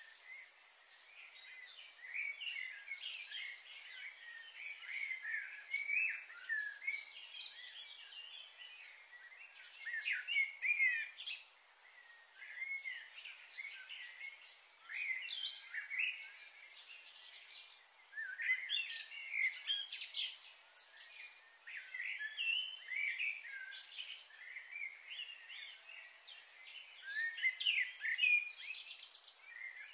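Small birds chirping and singing, many short overlapping calls and quick whistled notes coming in bunches, over a steady faint high-pitched hiss.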